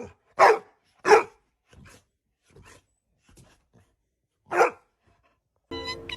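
A dog barking in short, separate barks: three loud ones about half a second apart at the start, a few faint ones, then one more loud bark about four and a half seconds in. Music starts near the end.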